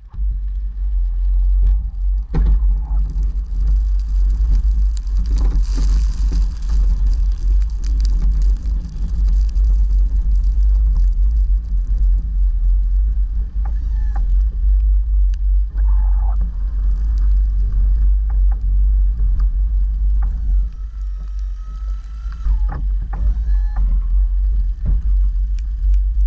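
Pickup truck with a snowplow driving and plowing snow: a loud, steady low rumble with scattered knocks and clatters.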